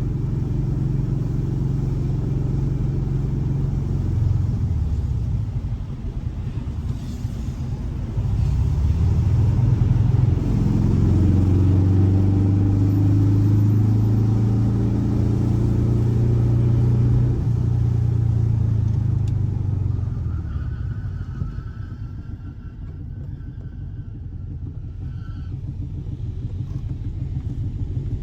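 Air-cooled 1584 cc flat-four boxer engine running with a low rumble. It picks up about eight seconds in, holds the higher speed for several seconds, eases off around twenty seconds in, then builds again near the end.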